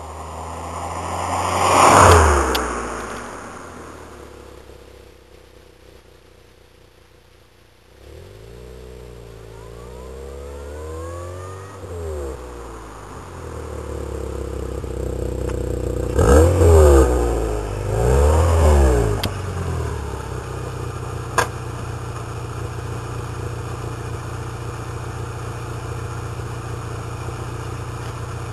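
Volkswagen Polo 6N exhaust through a Novus aftermarket rear silencer, revved repeatedly. There is a loud swell about two seconds in, then rising and falling revs, and two quick blips just past the middle. It then settles to a steady idle.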